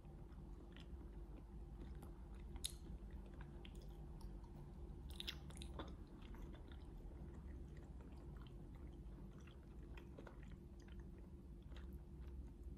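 Close-up chewing and biting of grilled chicken sate, with small wet clicks and a sharper crunch about two and a half seconds in and a louder cluster of crunches about five seconds in.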